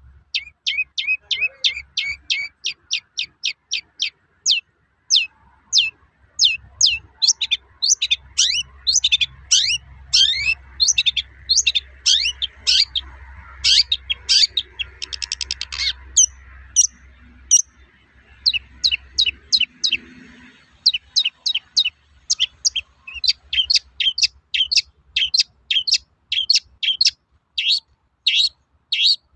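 Long-tailed shrike (cendet) singing its 'toet-toet' song: a fast run of short, sharp, high notes at about two to three a second, broken by a quick rattling trill midway.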